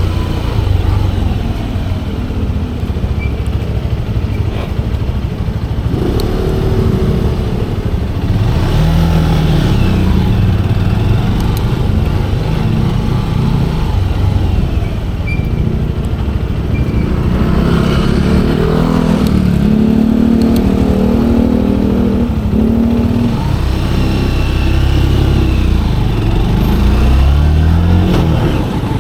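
Manual-transmission motorcycle engine running on the move, its pitch rising and falling several times as the rider accelerates and eases off, over steady wind and road rumble.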